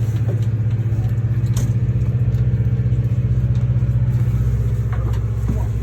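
An engine running steadily at idle, with a few light clicks and knocks over it.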